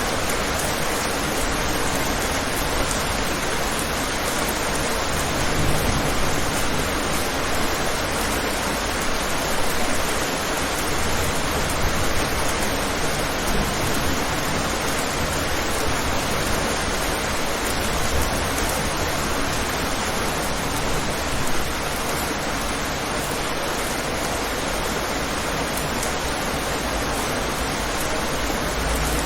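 Steady heavy rain, a dense even hiss without separate drops or thunder.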